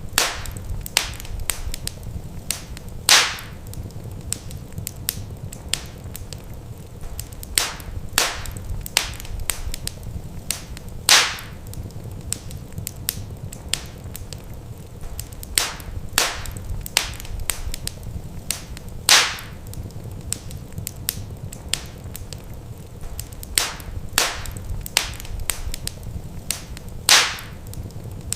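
Wood fire in a fireplace crackling: a stream of small sharp crackles over a low steady rumble, with a louder pop about every eight seconds.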